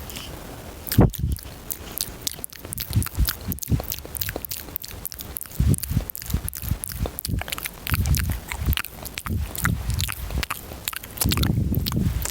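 Fast, aggressive ASMR mouth sounds close to the microphone: rapid wet clicks and smacks, with breathy puffs on the microphone in places, heaviest near the end.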